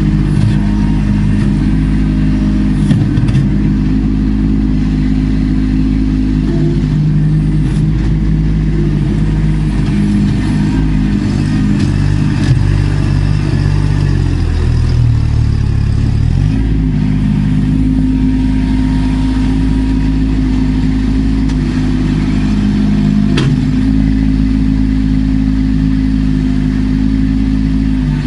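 Kubota B2650 compact tractor's diesel engine running steadily at working speed, its pitch dragging down for a couple of seconds around the middle before picking back up.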